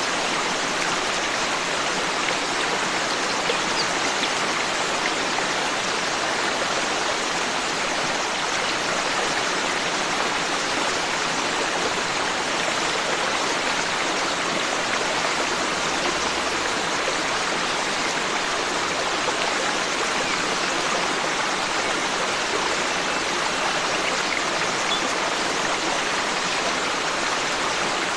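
Forest stream running steadily: an even, continuous rush of flowing water.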